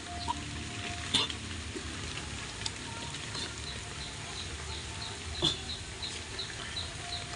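Steady hiss of rain falling, with a small bird chirping in short, evenly spaced notes about two or three times a second and a few sharp clicks.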